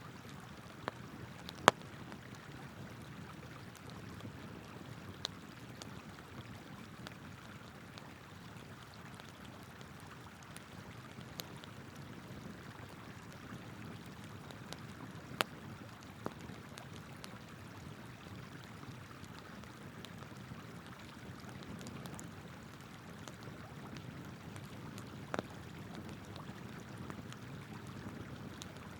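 Burning campfire wood crackling, with occasional sharp pops at irregular intervals, the loudest about two seconds in and about fifteen seconds in, over the steady rush of a flowing river.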